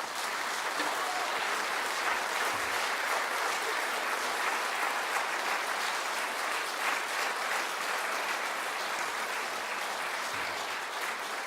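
Concert hall audience applauding steadily after a piece of music ends.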